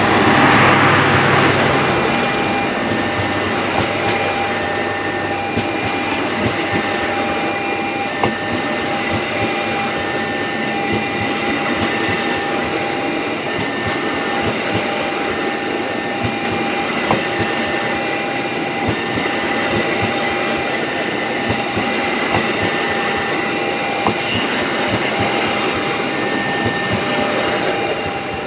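Train passing close by, with a steady rumble and many sharp clicks of wheels over rail joints, loudest at the start. A repeating two-note electronic tone sounds over it throughout.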